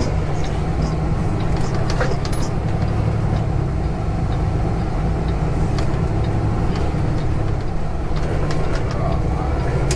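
Semi-truck's diesel engine running steadily, heard inside the cab while driving, with a few scattered clicks and rattles.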